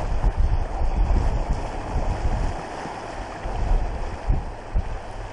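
Wind gusting on the microphone over the rush of water along a small sailboat's hull, the boat moving under sail alone with no engine running.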